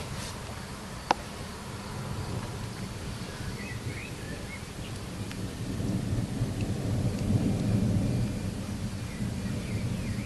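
Thunder rumbling, low and rolling, swelling about six seconds in and easing off near the end, over a background of rain. A single sharp click comes about a second in.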